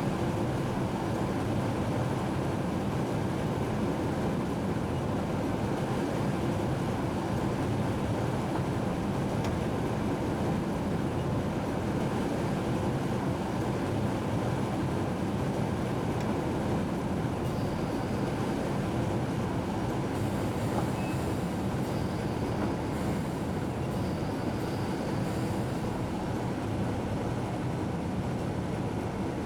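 Train running at steady speed, a continuous rumble of running gear and motors heard from inside the cab. A faint high whine comes and goes in the second half.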